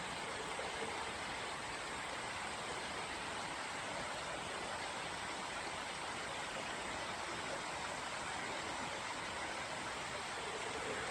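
Steady rush of flowing water, an even noise with no distinct events.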